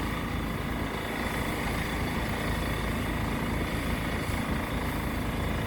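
Steady, low vehicle engine rumble with no sudden events.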